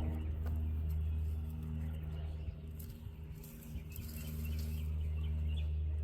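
A steady low mechanical hum with a few faint bird chirps above it.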